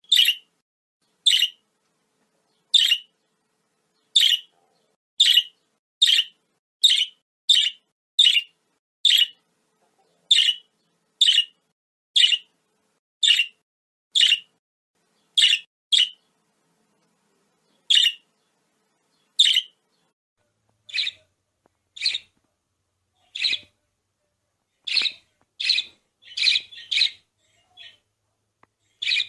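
Budgerigar chirping: short, sharp single calls about once a second with silence between them. The calls grow softer in the second half and come in a quicker cluster near the end.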